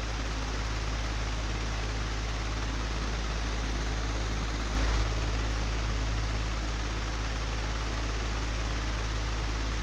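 Old, broken electric fan running steadily: a constant rushing noise over a low hum, with a brief low bump about five seconds in.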